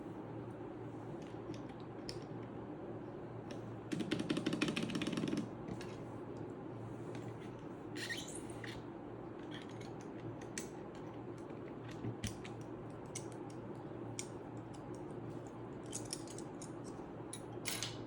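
Plastic keycaps being handled and pressed onto a Redragon K530 Pro mechanical keyboard: scattered light clicks and taps. A dense rattle of rapid clicks comes about four seconds in, and a brief scrape about eight seconds in, over a steady low hum.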